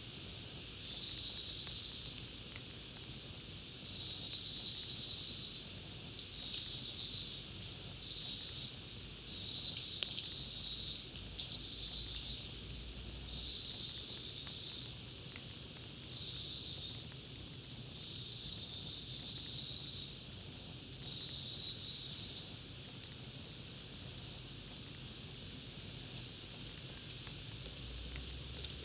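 Campfire crackling, with scattered sharp pops over a steady hiss. Over it, a high buzzing trill, like an insect or small bird, repeats in about ten short bursts at uneven gaps, then stops about three-quarters of the way through.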